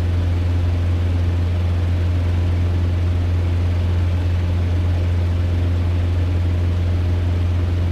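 Cessna 150's four-cylinder Continental O-200 engine and propeller heard from inside the cockpit in flight: a loud, steady, low drone that holds the same pitch throughout.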